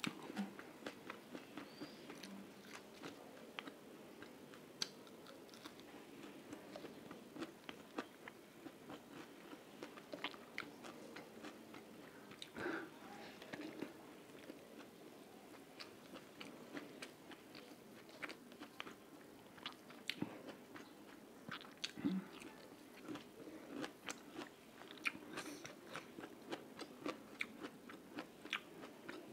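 A person chewing and biting food close to a clip-on microphone, with many short, irregular crunches and wet clicks of the mouth.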